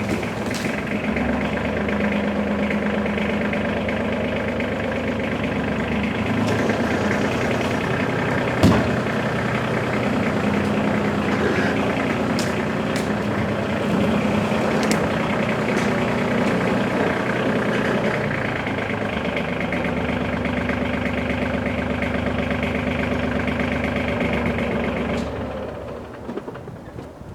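A vehicle engine running steadily, with a few sharp knocks and rattles, the loudest about nine seconds in. The engine sound drops away about 25 seconds in, as if shut off.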